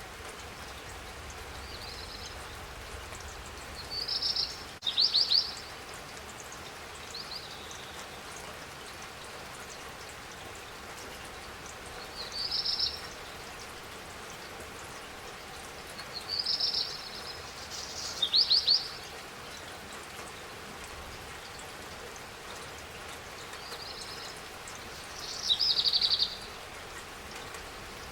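Steady rain falling, with a songbird calling over it every few seconds: short high chirps and quick trills, clearly louder than the rain.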